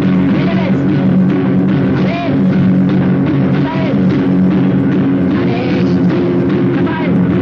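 Loud, distorted hardcore punk music played from a compilation cassette: distorted guitar chords over a drum kit, running steadily at full tilt.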